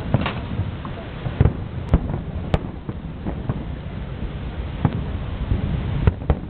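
Fireworks going off: about seven sharp bangs at uneven intervals, two of the loudest close together about two seconds in, over a steady low rumble.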